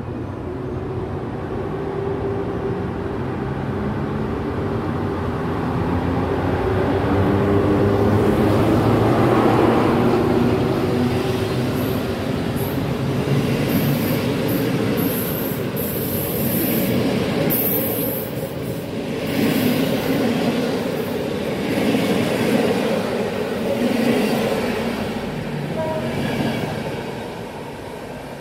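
An EP07 electric locomotive hauling a passenger train past a station platform. Its running hum grows to its loudest about ten seconds in. The coaches then roll by with wheels clattering over the rails and brief high squeals around the middle, and the sound fades as the train draws away near the end.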